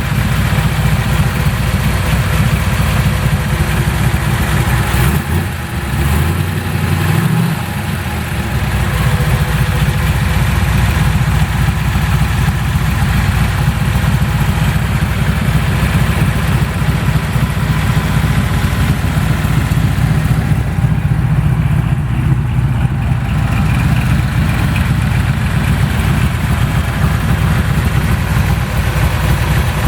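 Engine idling steadily, its note briefly changing about five to eight seconds in.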